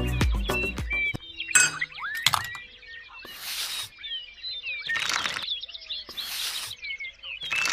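Small birds chirping with many short, quick calls after the music fades out in the first second. A short rushing noise, less than a second long, repeats about every second and a half among the chirps.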